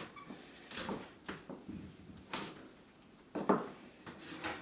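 Oven door opening and a baked pizza on its pan being taken out: a few separate clunks and knocks, the loudest about three and a half seconds in.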